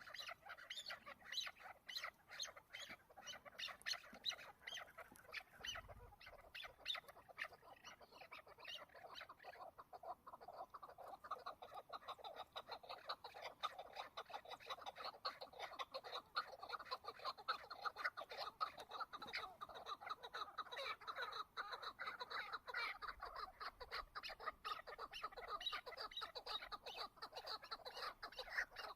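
Chukar partridge calling in a fast, unbroken run of short clucking notes.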